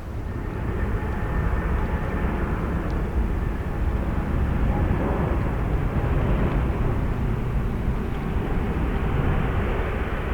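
Jet airliner engines: a steady rushing noise that swells about a second in and holds.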